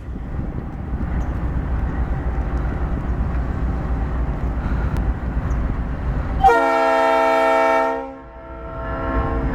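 Steady low rumble from a BB40-9WM diesel-electric locomotive, then its air horn sounds one long chord for departure about six and a half seconds in, with a fading echo after.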